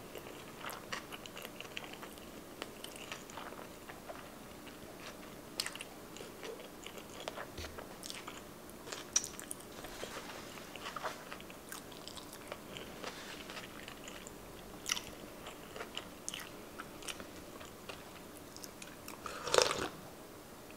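Close-miked chewing of sushi: scattered soft, wet mouth clicks and smacks. Near the end comes a loud sip of miso soup from a plastic cup.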